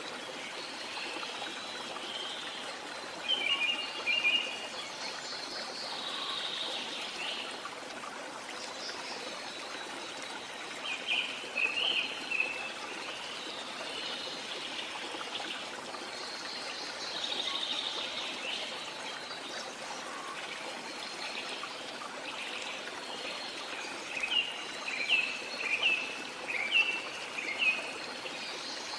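Steady running water of a trickling stream, with birds chirping over it in several short runs of quick notes, the busiest run near the end.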